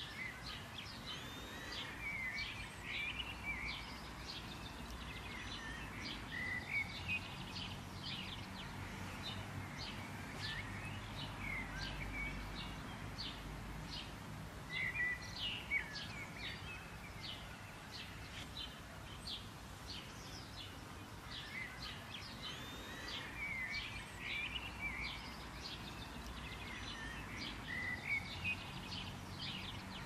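Several small songbirds chirping and twittering in quick short notes, many calls overlapping, over a faint steady low background rumble.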